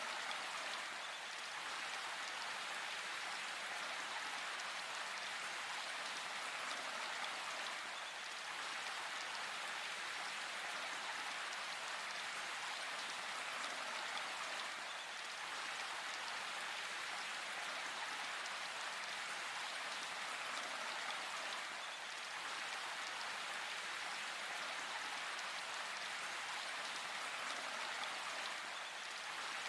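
Steady rain falling and pattering on leaves and ground in a forest, an even hiss of drops without thunder.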